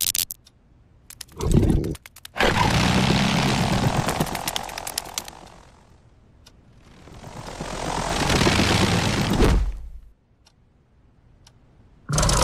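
Cartoon sound effects: a motor-like drone that starts suddenly and fades away, then swells back up and cuts off sharply, like something flying off and coming back. Short bursts come before and after it.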